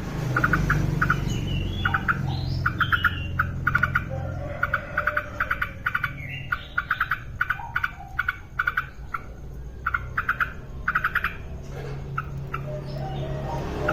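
Yellow-vented bulbul (trucukan) singing actively: quick clusters of short chattering notes with a few gliding whistled notes mixed in, over a steady low rumble.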